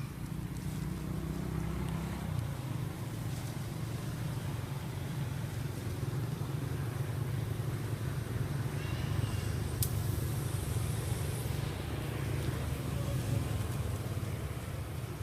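Steady low rumble of a motor vehicle's engine running nearby, with a single sharp click about ten seconds in.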